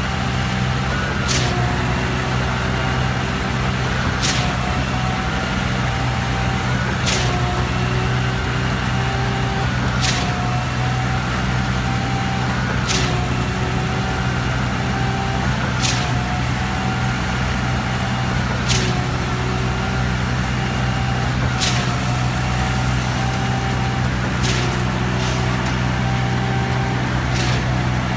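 Concrete pump truck working on a slab pour: its diesel engine runs with a steady drone while the pumping cycle gives a sharp knock about every three seconds, with a whine that shifts slightly in pitch between the knocks.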